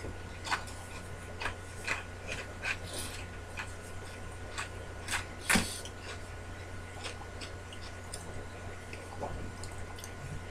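Crunchy Cheetos being chewed: irregular crisp crunches, the loudest about five and a half seconds in, growing sparser toward the end, over a steady low electrical hum.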